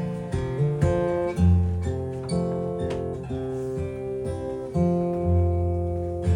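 Acoustic guitar playing an instrumental intro, picked notes and strummed chords over low bass notes, each note starting sharply and ringing on.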